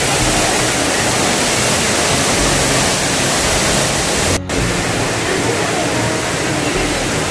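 Waterfall: a loud, steady rush of falling water, cut briefly by a dropout about four seconds in.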